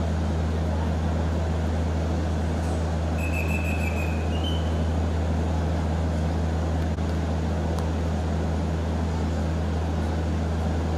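Steady low drone of a stationary train standing at a station platform, over the general noise of the station.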